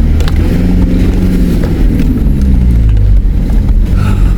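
Nissan Patrol 4WD's engine running under load on a rough track, with a deep rumble; its pitch rises about a second in and eases off again, with a few light knocks.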